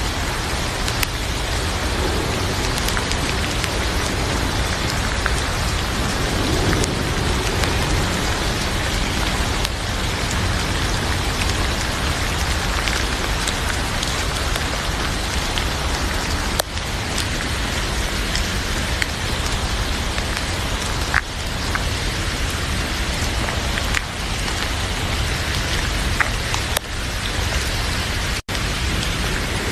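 Heavy rain falling: a steady, dense hiss with scattered small clicks. The sound cuts out for an instant near the end.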